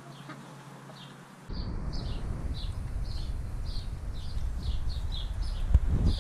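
A bird chirping over and over in short falling notes, about three a second. Underneath is a low rumble that starts abruptly about one and a half seconds in, and there is a single thump near the end.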